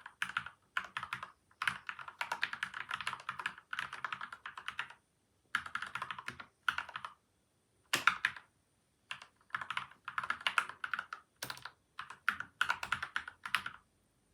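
Fast typing on a PCL87 mechanical keyboard with lubed switches and stabilisers, taped and foam-damped, in quick runs of keystrokes broken by short pauses. One louder key stroke about eight seconds in, and the typing stops just before the end.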